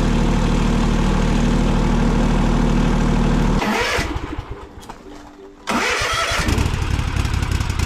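Construction machine's engine idling steadily, then shut off about three and a half seconds in and running down. Near the end, engine-like running sound starts up again suddenly.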